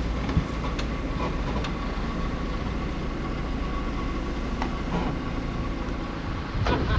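Car on the move, a steady low rumble of engine and road noise heard from inside the cabin, with a few light ticks.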